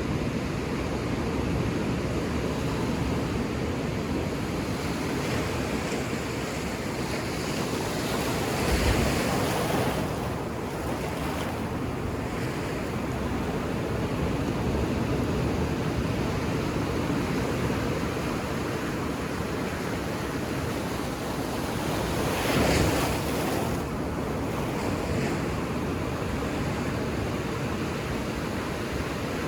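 Ocean surf breaking on a beach: a steady wash of waves, with louder breakers swelling up about nine seconds in and again about twenty-two seconds in.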